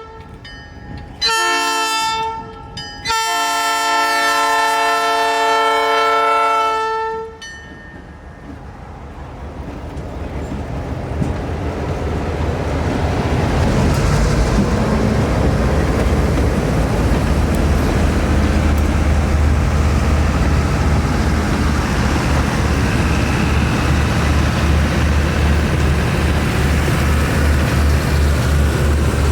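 Locomotive air horn sounding a short blast and then a long one, several tones at once, like the end of a grade-crossing signal. The train then rumbles closer, growing louder until it runs past steadily with an even low pulsing.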